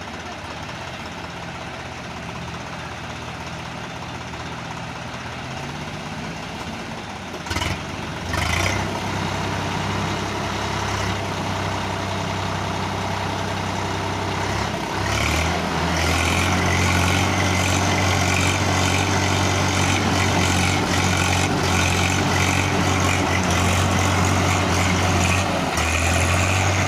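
Heavy diesel engine running steadily, stepping up to a louder, harder-working note about eight seconds in and again about halfway through, then holding there.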